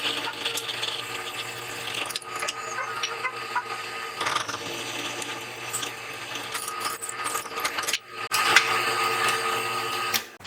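Power tool motor running with steady abrasive grinding and rubbing, a brief break about eight seconds in, then coming back louder.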